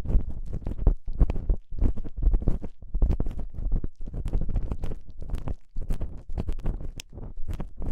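Ear-cleaning tools scraping and rubbing inside a binaural microphone's ear: a dense, irregular run of close, crackly scratches with a heavy low rumble from contact with the mic.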